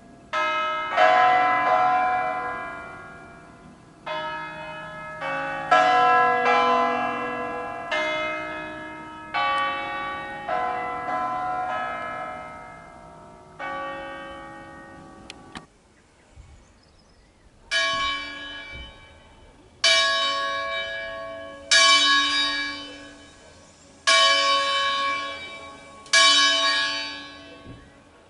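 Church bells of a nine-bell peal in B cast by Angelo Ottolina in 1953: the three largest bells ring in overlapping, irregular strokes and stop about halfway through. After a pause of about two seconds, a single smaller bell, the C-sharp call bell, strikes alone about every two seconds.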